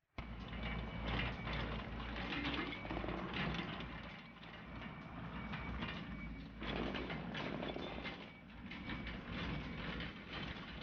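Yanmar ViO80 excavator at work in hard, rocky dirt: the engine runs under a continuous clatter and scraping of steel on rock and packed earth.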